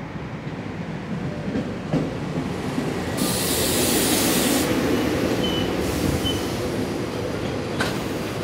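SEPTA Silverliner IV electric multiple-unit train rolling along the platform, its wheels rumbling on the rails and growing louder. About three seconds in comes a loud hiss lasting over a second, followed by a couple of short high wheel squeals and a single click near the end.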